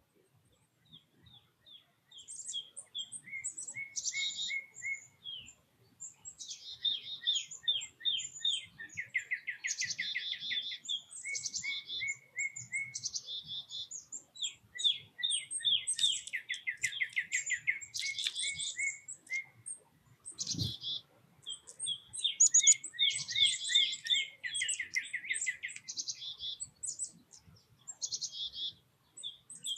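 Small songbirds chirping and singing rapid trills, one call after another, starting about two seconds in. A single dull thump about two-thirds of the way through.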